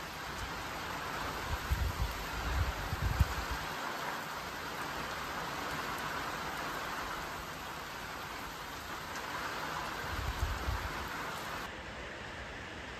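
Heavy rain falling steadily in a storm, with low gusty rumbles of wind on the microphone about two seconds in and again about ten seconds in. Near the end the sound changes to the wash of surface water running down a flooded track.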